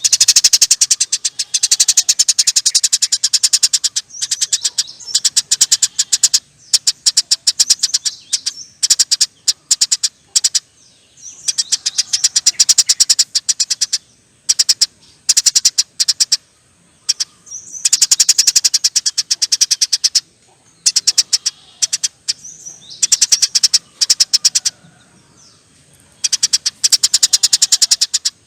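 Eurasian tree sparrow chattering hard: long runs of very rapid, harsh chirps, each run lasting one to three seconds with short pauses between.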